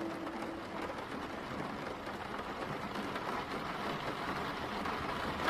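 Steady rain on a car's roof and windows, heard from inside the car.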